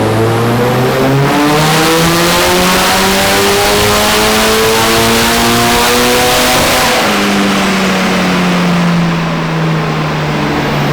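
Nissan S15's turbocharged SR20DET four-cylinder, on E85 with a bigger turbo, making a full-throttle pull on a chassis dyno: the revs climb steadily for about seven seconds, then the throttle is lifted and the revs fall away slowly.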